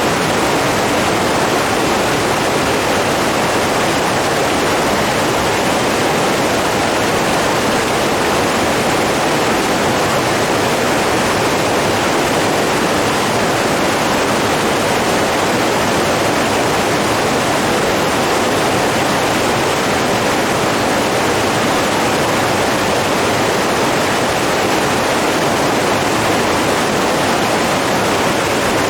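Steady rushing water, a continuous even roar of flowing or falling water.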